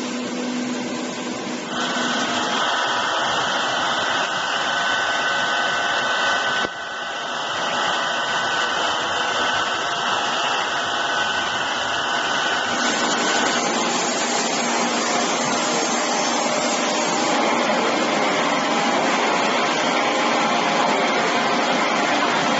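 Block-ice machine running: a steady, loud whirring noise whose tone shifts abruptly a few times.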